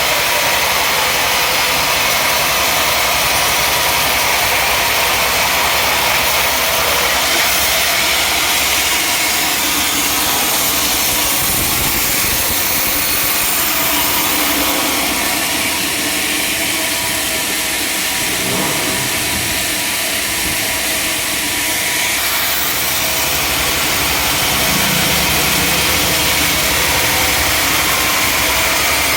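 Sawmill machinery running steadily, a continuous engine-like drone with a strong hiss, its tone shifting a little for several seconds midway.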